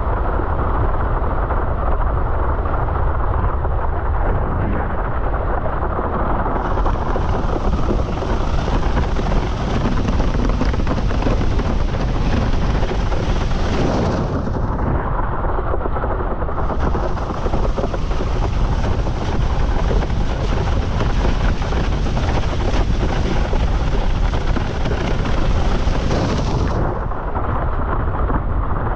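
Strong wind buffeting the microphone of a windsurfer sailing fast in high wind, a loud, steady rumble. Over it, in two long stretches, comes the hiss of water rushing and spraying under the board.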